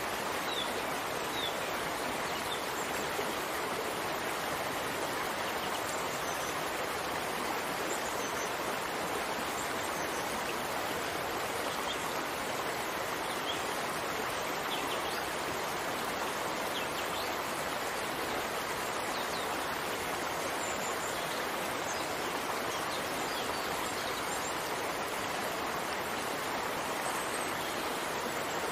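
Steady rain, an even dense hiss with no pauses, with faint scattered ticks above it.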